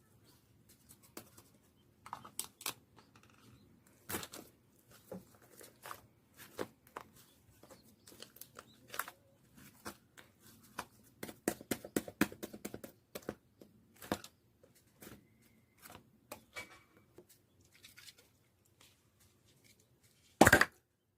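Hand-played slime squishing and stretching, giving irregular small pops and crackles, with one louder sharp pop near the end.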